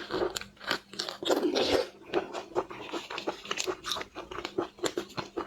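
Close-miked eating of shellfish: biting and crunching, with a quick run of sharp crackling clicks as shell and meat are chewed.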